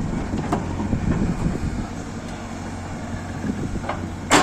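JCB 3DX backhoe loader's diesel engine running steadily with scattered light knocks, and one loud sharp clank near the end.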